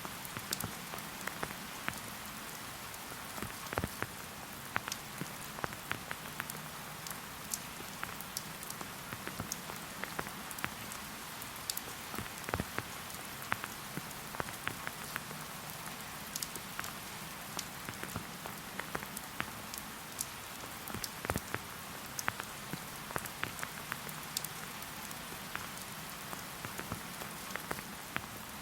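Steady rain falling in a forest, with many separate drops tapping at irregular moments over an even hiss.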